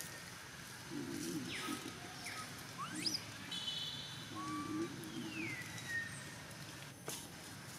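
Scattered bird calls: a quick rising whistle about three seconds in, a short buzzy trill just after, and a long falling whistle near six seconds. Faint low voice-like murmurs come in between.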